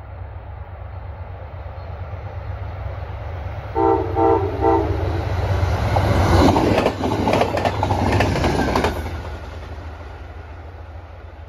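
Amtrak passenger train approaching and passing close by. It sounds three short horn blasts about four seconds in, then its wheels clatter loudly over the rail joints for a few seconds as it goes by, and the sound fades away near the end.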